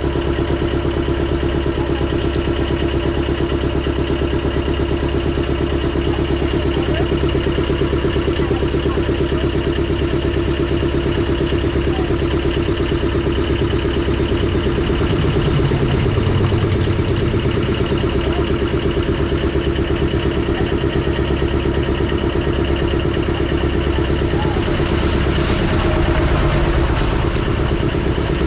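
Motorboat engine running at a steady speed, a loud, even drone that swells slightly a couple of times.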